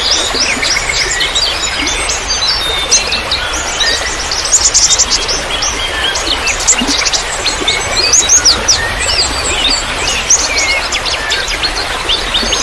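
A chorus of many small birds chirping and twittering at once, calls overlapping thickly throughout, over a steady trickle of running water.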